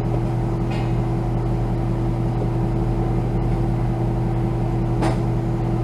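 Car engine idling steadily, with a brief click about five seconds in.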